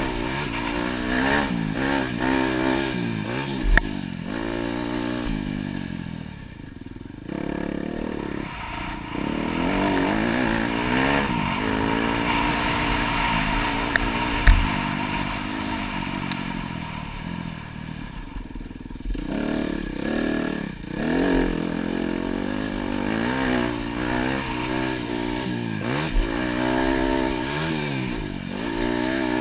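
Dirt bike engine revving hard and dropping back again and again as the throttle is opened and closed around a motocross track, with clattering and a couple of sharp knocks, about four seconds in and again near the middle.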